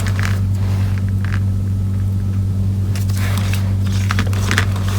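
Steady low electrical hum, with scattered light clicks and taps of small parts being handled on the bench.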